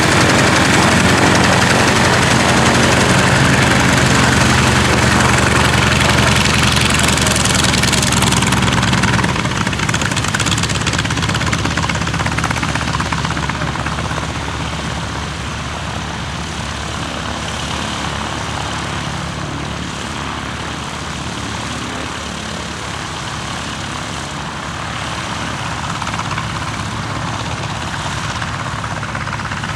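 North American T-28 Trojan's Wright R-1820 nine-cylinder radial engine and propeller running. It is loudest for the first nine seconds or so, then drops to a steadier, quieter drone.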